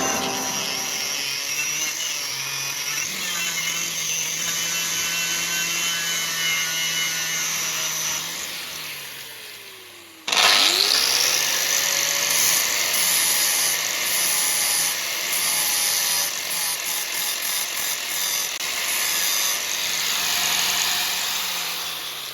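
Handheld electric power tool running under load with a high whine and hiss. It winds down and stops about eight to ten seconds in, starts again suddenly with a rising whine as it spins up, runs steadily, then winds down again near the end.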